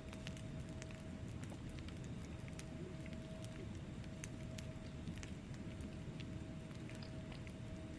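Wood fire burning in a fireplace: irregular small crackles and snaps from the logs over a low, steady rumble of the flames, with a faint steady hum underneath.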